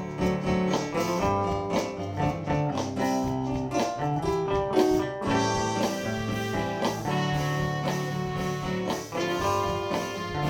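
Live soul band playing an instrumental passage between sung lines, with guitar to the fore over bass and drums.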